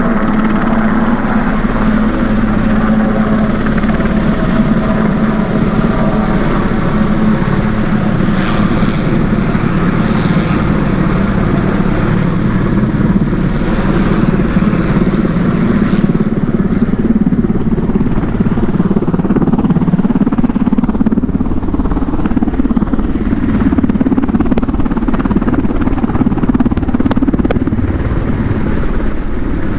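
Motorcycle engine running steadily under way, with wind rushing past, its pitch rising a little in the second half.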